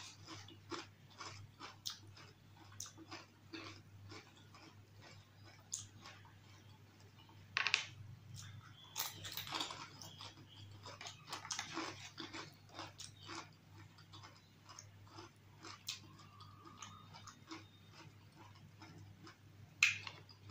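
Close-up chewing of dahi puri chaat: crisp puri shells soaked in yogurt crunching and squelching in the mouth, with many small wet clicks and a few louder crunches past the middle and one just before the end. A faint steady low hum runs underneath.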